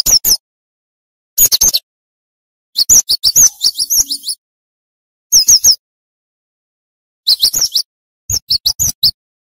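Cinereous tit (gelatik batu) singing in quick bursts of sharp, high, falling notes. There are six bursts, the longest about a second and a half, each separated by a dead-silent gap.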